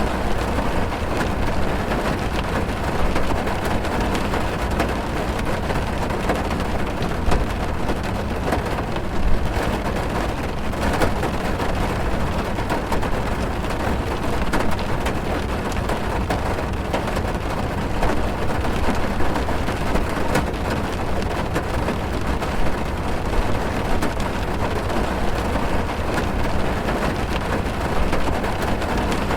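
Heavy rain on a car, heard from inside the cabin: a dense, steady patter of drops on the roof and glass over a low rumble.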